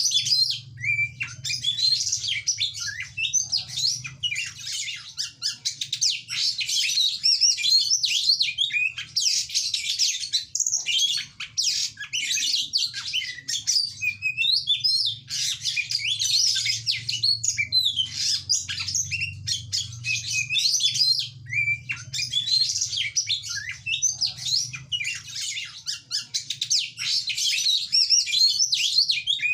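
Oriental magpie-robin (kacer) singing a continuous, rapid, varied song of whistles and chattering notes, broken by short pauses a few times.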